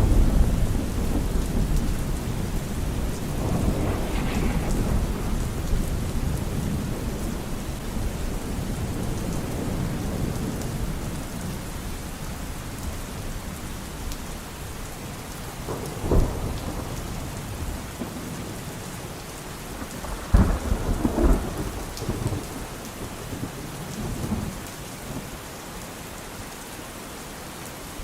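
Steady rain with thunder. A long low rumble dies away over the first half, then sharp thunderclaps crack about halfway through and twice more a few seconds later.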